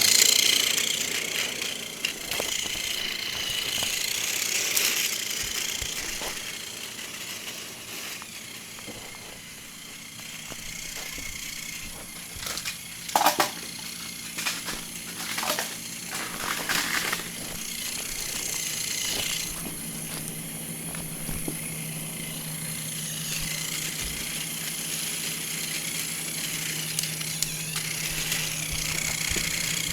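Battery-powered TOMY toy train running on plastic track: a steady motor whir with a rattling hiss. About halfway through come a handful of sharp clicks and knocks.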